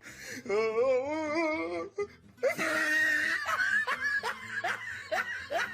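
A person laughing: a long wavering laugh, then a high squeal, then a run of short laughs about three a second.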